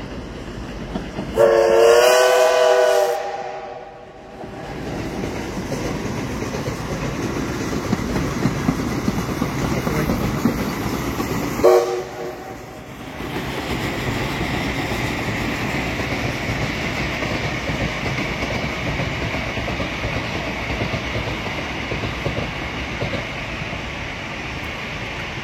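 Train horn sounding for about two seconds, then a train running along the rails with steady rumbling noise. A second, short horn blast comes about twelve seconds in.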